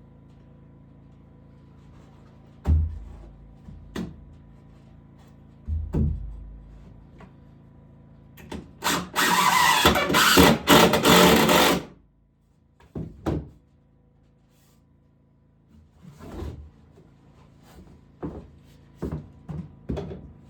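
Woodworking sounds: scattered knocks and a few low thumps on wood, then about three seconds of loud, harsh rasping cutting noise in the middle, followed by more light knocks.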